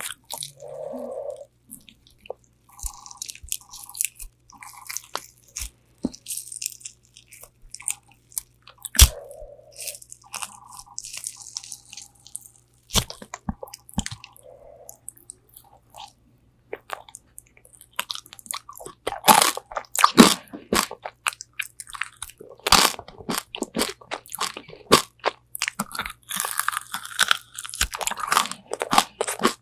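Biting and chewing crispy Korean fried chicken wings: sharp crunches and crackles of the fried coating, with quieter chewing between bites. The crunching is heaviest in the second half.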